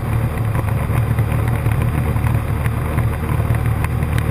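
Cessna 152's Lycoming O-235 four-cylinder engine and propeller droning steadily, heard inside the cabin.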